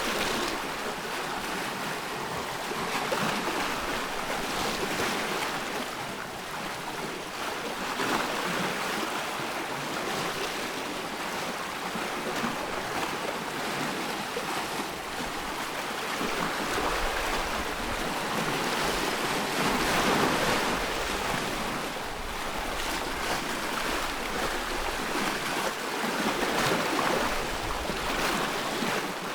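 Ocean surf: waves washing in with a steady rushing hiss that swells and eases every few seconds.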